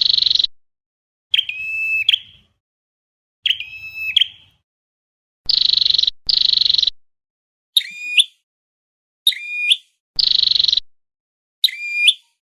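Flowerpecker ('chim sâu đầu đỏ') calls played as a trapping lure. Short calls repeat about every second and a half, mixing clear pitched notes that hook sharply at the end with harsh buzzy notes.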